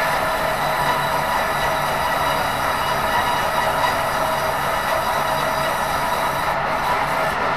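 Steady mechanical running noise with several constant hum tones over a dense, even hiss.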